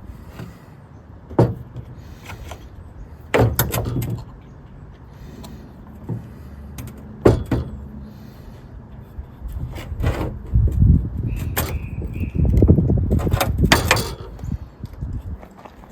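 Pieces of dry wood handled and knocked together: a few sharp wooden knocks and clatters over rustling handling noise, which grows heavier in the last few seconds.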